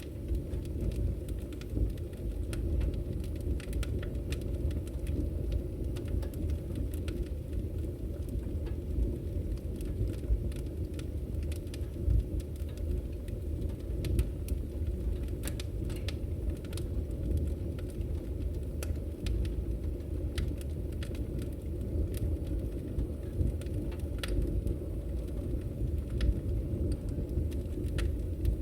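Firewood burning in a fireplace: a steady low rumble of the fire with irregular sharp crackles and pops, a few of them louder.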